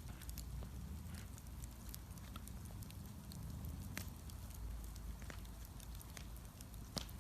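Wood bonfire crackling: scattered sharp pops over a low steady rumble, with one louder pop near the end.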